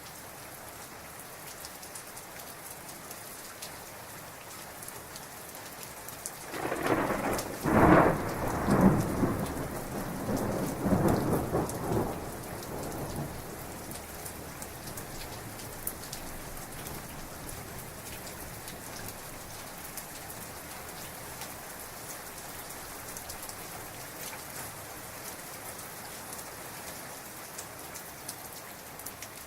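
Heavy rain falling steadily, with a rolling thunderclap that breaks in about six seconds in, peaks in several cracks and rumbles for around six seconds before fading back under the rain.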